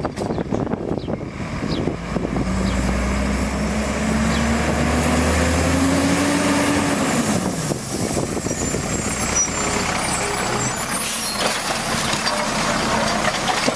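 Automated side-load garbage truck's diesel engine revving, its pitch climbing steadily for several seconds and then dropping back, with mechanical clatter and hiss around it.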